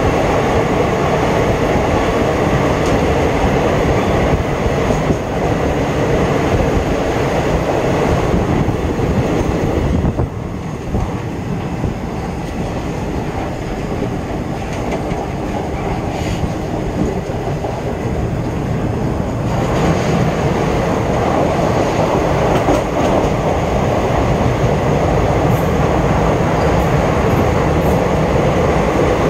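Passenger train running at speed through a tunnel, heard beside the coach's door: a loud, steady rumble and roar of wheels on rail. About ten seconds in, the hiss drops away and the sound turns duller for several seconds, then the full roar comes back.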